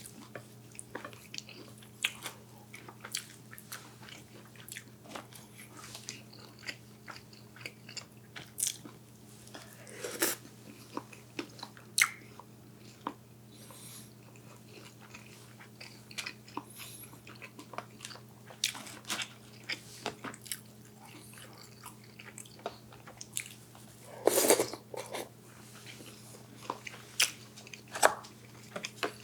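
Close-miked eating: steady chewing and biting with scattered short crunches and wet smacks, and a louder, longer burst of mouth noise about 24 seconds in, over a faint steady hum.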